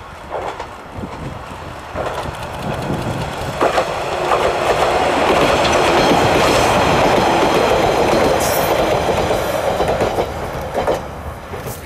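Isumi 200' three-car diesel railcar set passing, growing louder to a long peak in the middle and fading near the end, with wheels clicking over rail joints.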